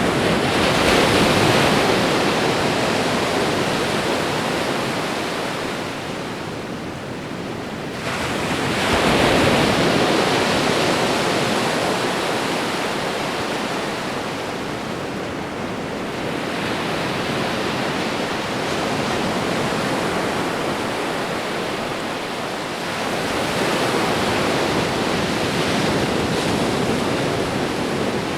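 Ocean waves breaking and washing on a shore, the surf swelling and easing with a new wave about every seven or eight seconds.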